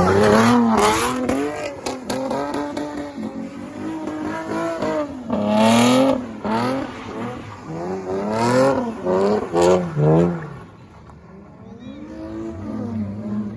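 Car engine revved hard again and again, its pitch climbing and falling with each rev. The revs are loudest about six seconds in and die down to a quieter level near the end.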